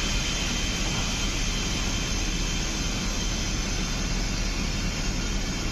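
Steady hiss and hum of an MTR East Rail Line electric train standing at the platform, its roof air-conditioning and auxiliary equipment running, with a faint high steady whine.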